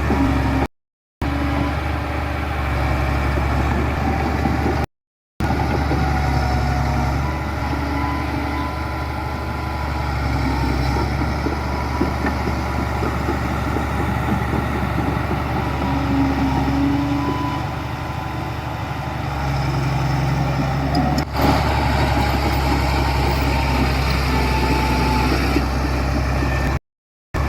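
Heavy diesel construction machinery running steadily, a low engine hum with a few steady tones above it. The sound drops out to silence briefly about a second in, about five seconds in and just before the end, and a single sharp click comes near 21 seconds.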